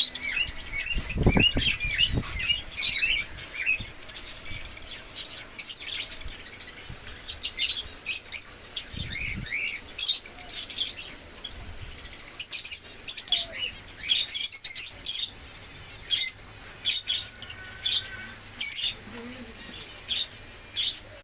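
Parrots chirping and calling in rapid short notes throughout, with a couple of low thumps a little over a second in and another about nine seconds in.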